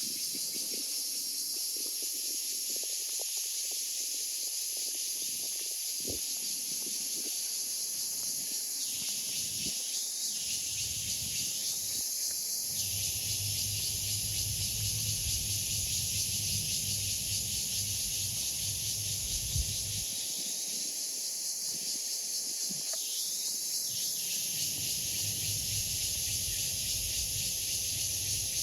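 Cicada calling: a continuous, steady, high-pitched buzz that holds at an even level, with a low rumble underneath in the second half.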